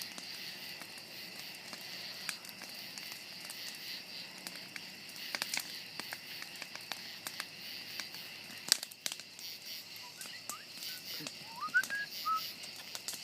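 Large bonfire crackling, with many irregular sharp pops and snaps over a steady high insect chirring. A few short rising whistles come near the end.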